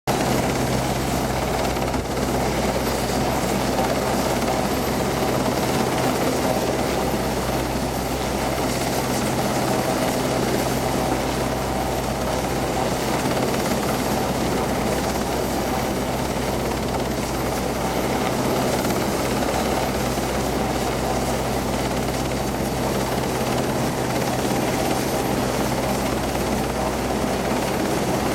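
RAF rescue helicopter running steadily, its rotor and engines a constant, unchanging drone.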